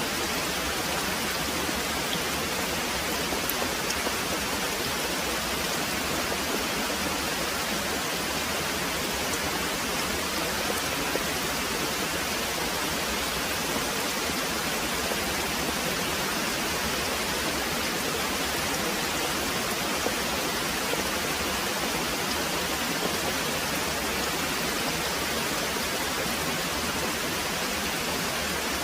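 Very heavy rain pouring in a steady, dense hiss, with no thunder standing out.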